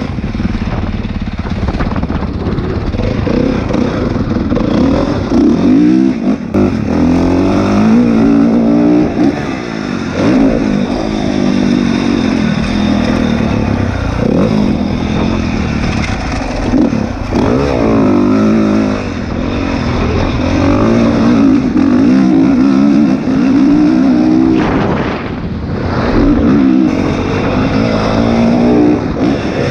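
Motocross dirt bike engine revving hard, its pitch climbing and falling back again and again as it accelerates and shifts, with a brief let-off about 25 seconds in.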